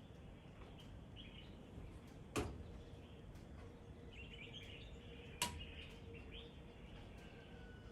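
Birds chirping faintly in scattered short calls over a low outdoor background. Two sharp clicks, about two and a half and five and a half seconds in, stand out as the loudest sounds.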